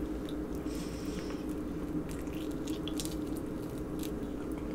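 Close-miked mouth sounds of biting into and chewing a sauce-covered chicken wing: soft wet smacks and small clicks over a steady low hum.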